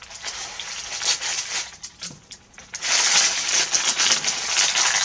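Parchment paper crinkling and crackling as it is pulled out from inside a glued rope shell. After a brief lull about two seconds in, it gets louder from about three seconds in.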